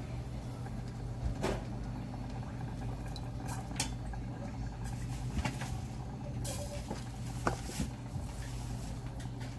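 Kitchen clatter at the stove: several separate light clicks and knocks of containers and utensils being handled, over a steady low hum.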